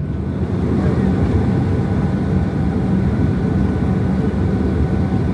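Steady rumble and hiss inside the cabin of a Boeing 737-800 with its engines running, growing a little louder about half a second in.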